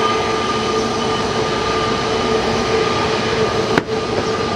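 Jet aircraft engines running steadily, a constant rushing noise with a steady whine over it. A single sharp click cuts in near the end, with a brief dip in level.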